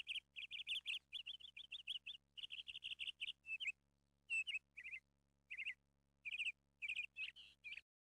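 A bird chirping in quick runs of short, high notes, several a second, broken by brief pauses.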